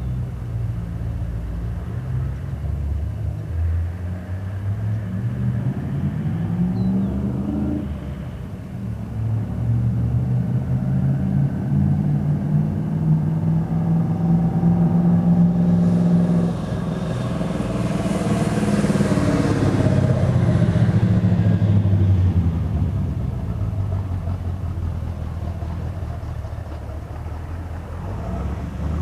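Exhaust of a 1974 Dodge D100's 361 big-block V8 through an X-pipe and dual Pypes M80 mufflers, running under load. The engine climbs in pitch and drops sharply, as at a gear change, then holds steady before falling away. A rushing hiss joins about halfway through.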